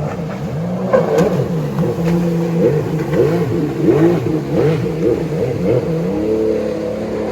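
Motorboat engines running at speed through the inlet, their pitch rising and falling unsteadily again and again. Near the end a steadier, level engine drone takes over.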